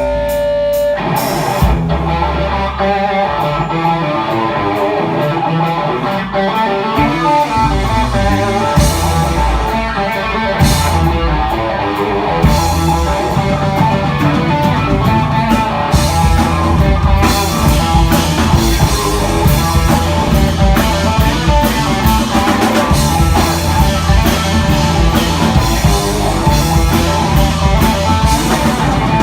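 Rock band playing live without vocals: distorted electric guitar and drum kit. A held chord gives way about a second in to the full band playing.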